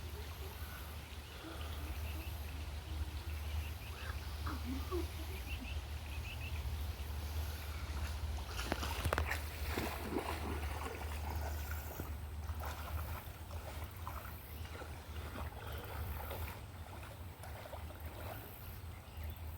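Creek ambience: a steady low rumble with running water, faint children's voices and a cluster of short, sharp sounds about nine seconds in, such as splashes or knocks.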